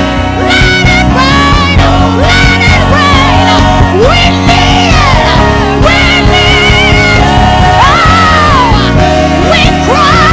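Live gospel praise-and-worship music: a lead singer with vibrato and sliding phrases over a full band with bass and keyboards.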